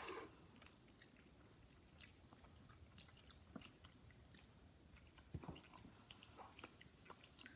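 Near silence broken by faint chewing and small mouth clicks of someone eating bánh in, a soft Vietnamese pressed cake, with a slightly louder few clicks about five and a half seconds in.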